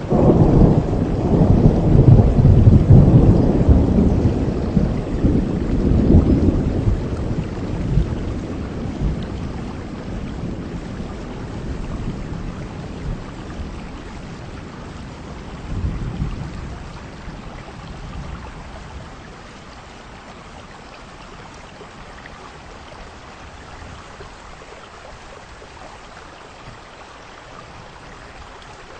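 Heavy rain with a long roll of thunder, loudest in the first few seconds and dying away over about ten seconds, and a smaller rumble about sixteen seconds in; after that, steady rain alone.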